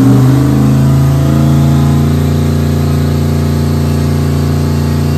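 Turbocharged 5.3-litre V8 floored against the trans brake. Its revs stop climbing within the first half-second and hold steady at a stall of about 3,400 rpm. The torque converter won't flash any higher because converter charge pressure climbs past 180 psi, where it should be under 100, which makes the converter act tight.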